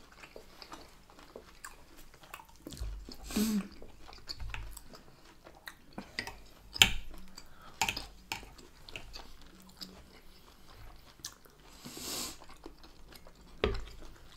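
Close-miked chewing and crunching of a steak dinner with chips and onion rings, with sharp clicks and scrapes of knives and forks on the plates, the loudest about seven seconds in and near the end. A couple of short breathy sounds come between bites.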